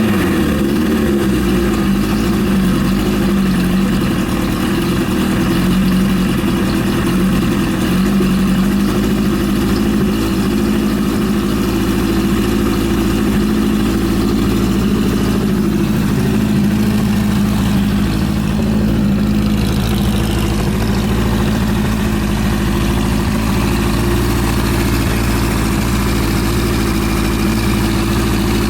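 Suzuki GS750's air-cooled inline-four engine idling steadily with a freshly overhauled top end.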